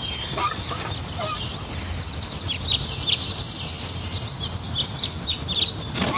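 Birds chirping over a steady low background rumble.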